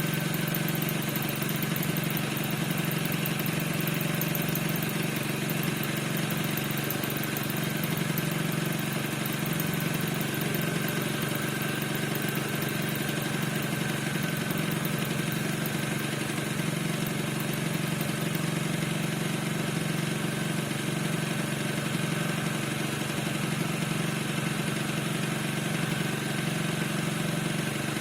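Piaggio NRG 50 scooter's two-stroke engine idling steadily, with a squeak whose cause the owner has not found.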